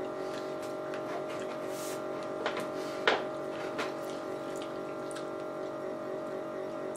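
Wet mouth sounds of eating a juicy chocolate-covered strawberry: soft smacks and clicks as it is chewed, the sharpest about three seconds in. A steady soft background music bed runs underneath.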